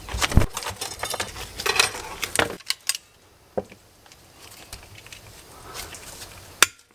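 Small metal brake caliper parts being handled, with a quick run of clinks and clicks for the first two and a half seconds, then a few scattered clicks and one sharp click near the end.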